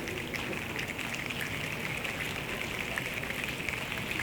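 A rain effect made by a choir: a steady patter of many small clicks over an even hiss, imitating falling rain.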